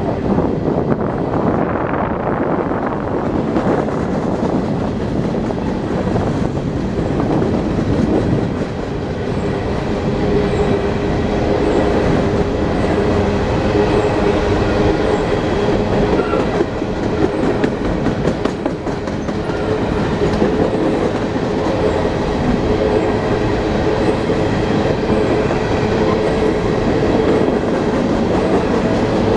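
A train running steadily: a continuous rumble with a steady engine drone that grows stronger about nine seconds in.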